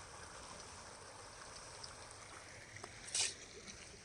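Water flowing steadily in a stream, faint and even. About three seconds in, a brief, sharp, high-pitched sound stands out as the loudest moment.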